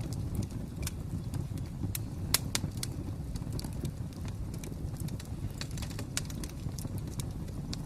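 Wood fire crackling: irregular sharp pops and snaps, a few louder ones about two and a half seconds in, over a steady low rumble of the burning fire.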